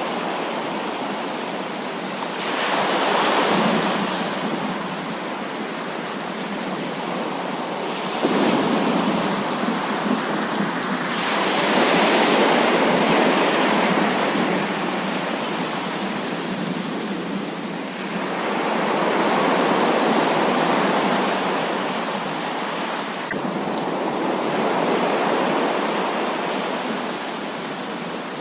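Heavy rain falling in a steady hiss, with rolls of thunder swelling and fading several times.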